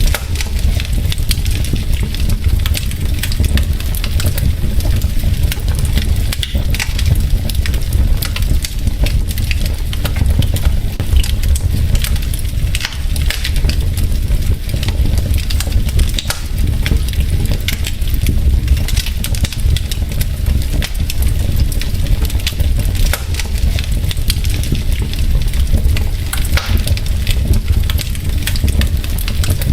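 Wood fire of burning logs in a fireplace crackling: many quick, irregular snaps and pops over a steady low rumble.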